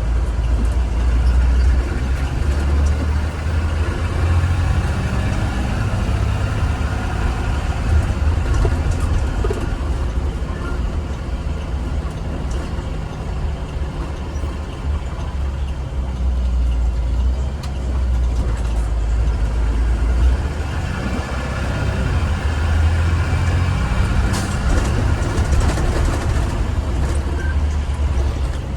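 2015 Blue Bird Vision school bus driving, heard from inside: a steady, heavy low rumble of engine and road noise that swells and eases, with a few faint clicks and rattles near the end.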